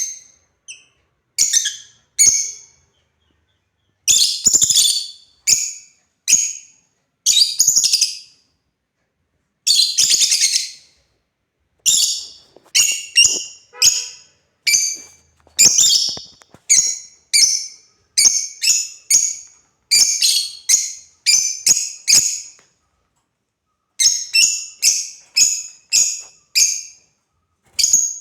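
Lovebirds chirping: a long run of short, shrill calls with brief pauses between them, coming about one or two a second through the second half.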